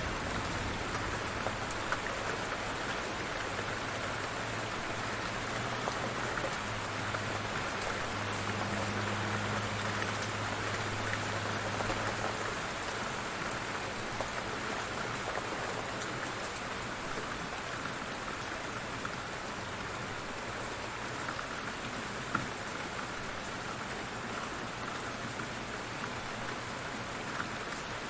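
Light rain falling steadily, an even patter with scattered individual drops. A low steady hum sits underneath for the first twelve seconds or so, then stops.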